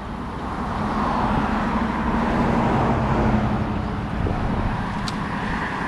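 Road traffic: a vehicle passing on the highway, its tyre and engine noise swelling to a peak about three seconds in and then easing.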